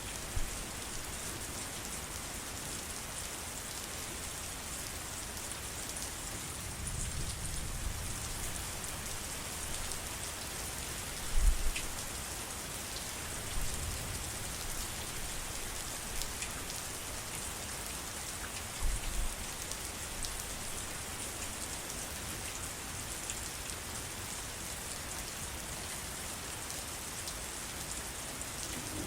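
Steady rain falling on foliage and surfaces, a dense even hiss of drops. A few short low thumps stand out above it, the loudest about eleven seconds in.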